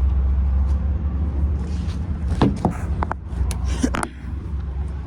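Steady low rumble of a car, with a few short clicks and knocks in the middle.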